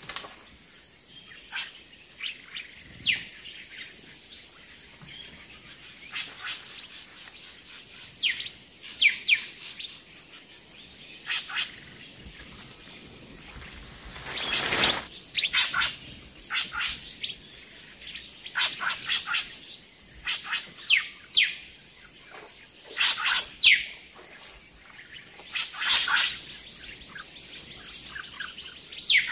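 Wild birds chirping and calling, many short high chirps, some in quick runs of two to four, scattered throughout over a faint steady outdoor background.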